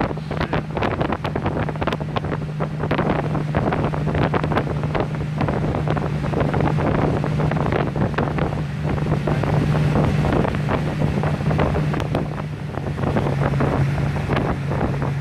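R32 Skyline GT-R's twin-turbo RB26/30 engine running at a steady speed on the dyno, not revving through a pull. It makes a constant low drone with rough, uneven crackle over it.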